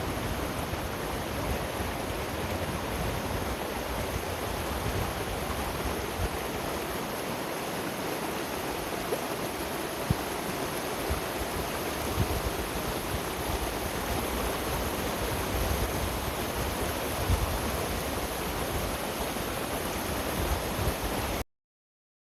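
Mountain stream running steadily, a continuous rush of water that cuts off suddenly near the end.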